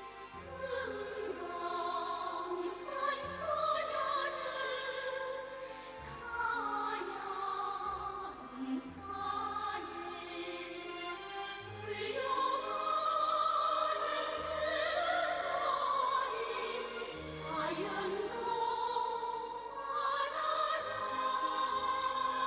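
Operatic singing with choir and orchestra: sustained, wavering sung melody lines over orchestral accompaniment.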